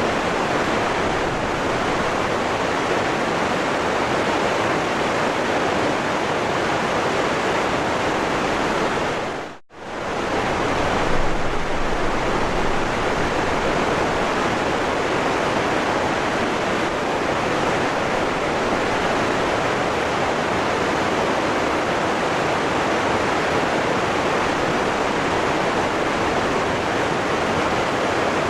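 Waterfall rushing steadily, an even wash of falling water. About ten seconds in it fades out for a moment and returns at once.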